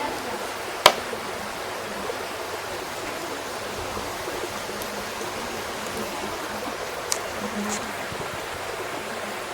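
Wood fire burning with a steady hiss, a single sharp crack of burning wood about a second in, and a couple of smaller pops near the end.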